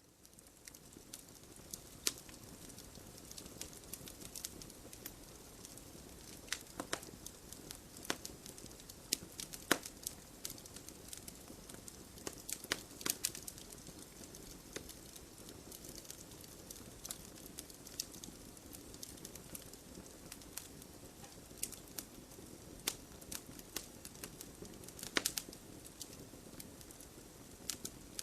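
Log fire burning in a fireplace: a steady low rustle of flames with irregular sharp crackles and pops from the burning wood, a few of them louder, about two, ten, thirteen and twenty-five seconds in.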